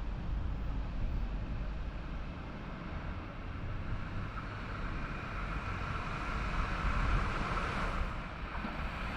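Wind buffeting the microphone over a low outdoor rumble, with the rising rail noise of an approaching train growing slowly louder toward the end.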